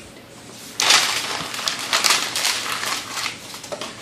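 Fire flaring up with a sudden rush about a second in after lighter fluid is added, then crackling densely before easing off near the end.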